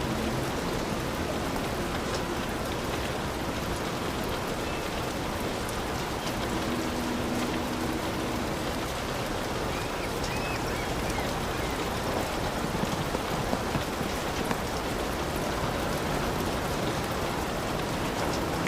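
Heavy rain falling steadily, a dense even hiss with fine drops ticking through it.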